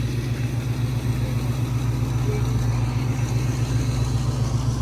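Car engine idling steadily, a deep even pulsing.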